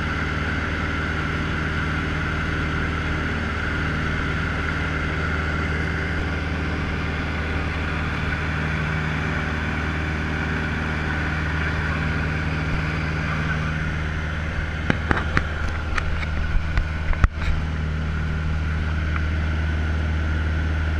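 Cessna 150L's Continental O-200 four-cylinder engine and propeller running steadily, a constant drone with low steady tones. A short series of sharp clicks and knocks comes about three-quarters of the way through.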